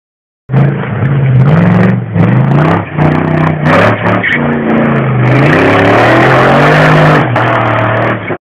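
BMW V8 engine of an off-road trophy buggy revving up and down repeatedly as it drives over rough ground, starting about half a second in.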